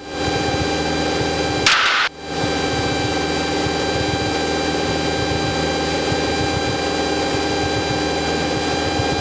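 Cessna 172's engine and propeller droning steadily in cruise, heard from inside the cockpit. About two seconds in, a short burst of hiss cuts in and stops abruptly.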